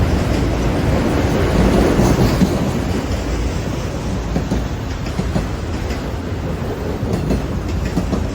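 A train rolling past: a steady rumble of wheels on rail, with a few faint clicks, easing a little about halfway through.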